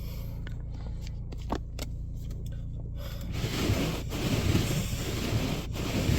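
A car engine idling with a steady low hum, a few small clicks over it, then from about three seconds in a few seconds of rustling and scraping.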